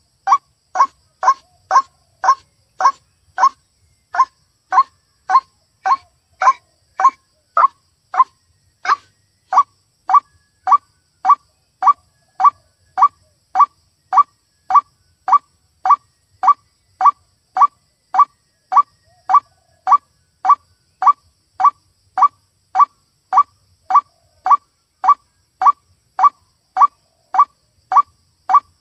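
White-breasted waterhen call played as a trapping lure: one short, mid-pitched note repeated monotonously at an even pace, a little under twice a second.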